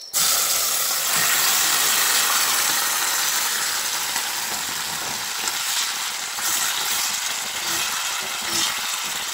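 Raw chicken livers hitting hot oil in a pot and frying with a loud sizzle. The sizzle starts suddenly and eases off slightly over the following seconds.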